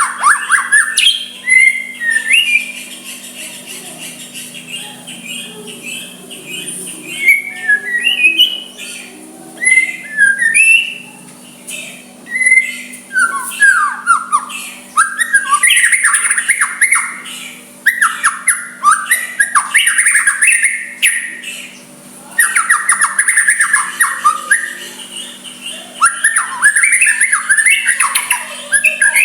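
White-rumped shama (murai batu) singing: a varied song of whistled notes and rapid chattering runs that come in bursts with short pauses, fullest in the second half.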